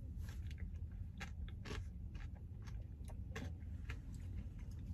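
Faint chewing and crunching of a mouthful of ice cream with hard peppermint candy cane pieces, heard as a series of irregular crisp clicks.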